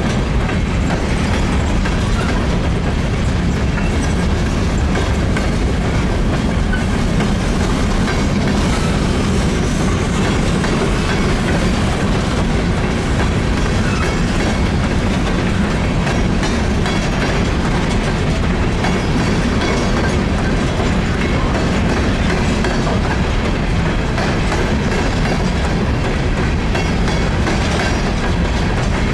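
Empty open-top hopper cars of a freight train rolling past: a steady low rumble of steel wheels on rail, with a continual run of clicks and rattles.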